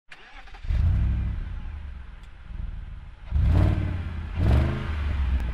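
Car engine revving in three throttle blips, the pitch rising with each; the first comes about a second in, the other two close together in the second half.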